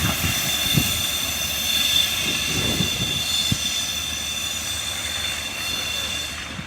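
Passenger train rolling past on the rails, with a steady high ringing whine from the wheels and rails over a rumble and a few knocks, fading near the end.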